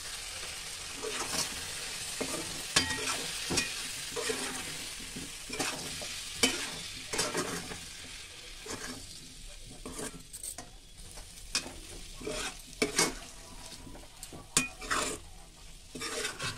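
Besan pieces sizzling in masala gravy in a kadhai while a spatula stirs them, scraping and knocking irregularly against the pan. The sizzle dies down about halfway through.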